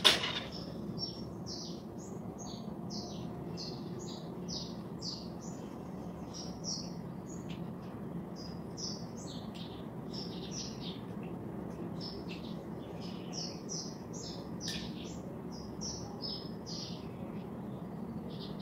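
A small bird singing a long, rapid twittering song of short high chirps, over a steady low hum. A sharp knock sounds at the very start.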